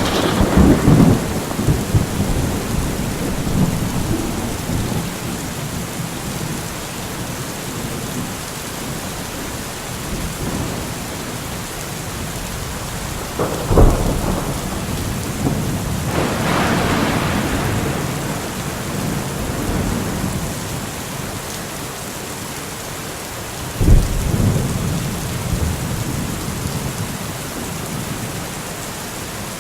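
Steady rain falling through a thunderstorm, with three peals of thunder: one at the start, a sharp crack about 14 seconds in that rolls on for several seconds, and another crack about 24 seconds in followed by rumbling.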